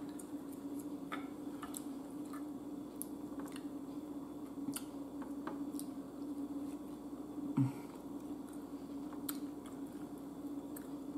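A person chewing thin-cut ribeye steak close to the microphone, with small wet clicks and smacks scattered throughout over a steady low hum. About seven and a half seconds in comes a short, low 'mmm' of enjoyment.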